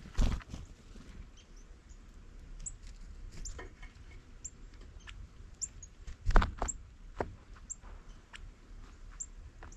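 Small birds at a feeder giving many short, high chip notes, scattered irregularly, with a few sharp knocks, the loudest about six seconds in.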